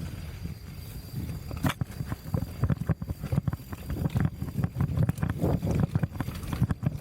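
Mountain bike rattling and knocking over rough trail ground: many irregular knocks over a low, uneven rumble.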